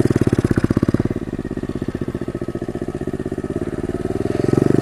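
Pit bike's small single-cylinder engine running at low revs with an even pulsing beat. It eases off after about a second and picks up again near the end.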